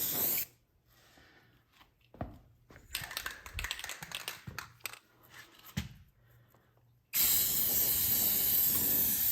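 Aerosol spray can of gloss black trim paint hissing in two bursts, the first cutting off about half a second in and a long steady one starting about two seconds before the end. Between them, light clicks and rustling from handling.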